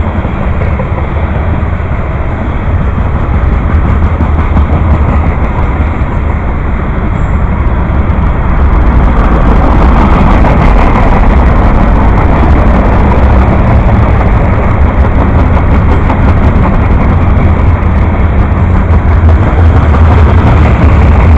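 Train rolling past, a loud steady rumble that grows louder about eight seconds in.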